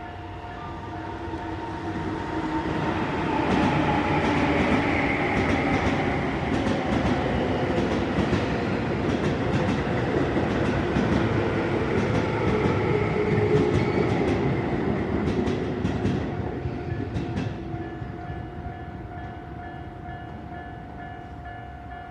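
Train passing a Japanese level crossing: it swells in over a few seconds, rumbles by with clicking wheels for about twelve seconds, and dies away near the end. The crossing's warning bell rings steadily underneath.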